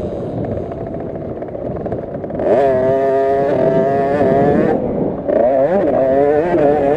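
Small two-stroke 50cc minibike engine, a KTM SX50, revving through the gears of a race: lower and rougher at first, then the revs climb about two and a half seconds in and hold high, drop off briefly near five seconds, and rise and fall again after that.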